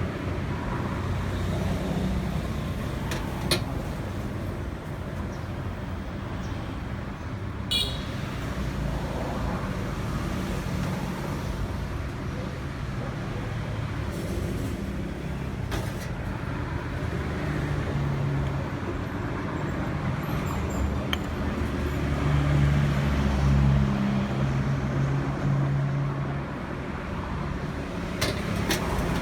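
Nissan Teana's engine running, with a low hum that shifts in pitch several times and a few sharp clicks.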